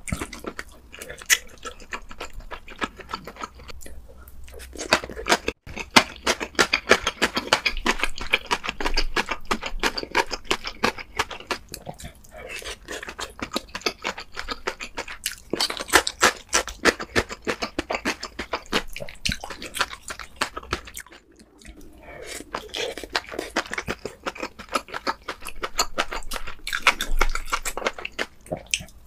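A person chewing crunchy fried food close to the microphone: dense, irregular crunches and bites, with a brief lull about three quarters of the way through.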